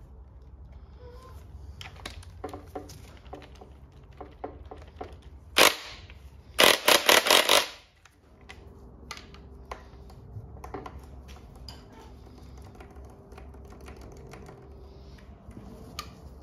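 Metal tools knocking and clinking on a Holden grey motor while its pistons are being removed. About five and a half seconds in there is a single loud strike, and soon after a quick run of about six loud metallic strikes lasting about a second, then lighter knocks.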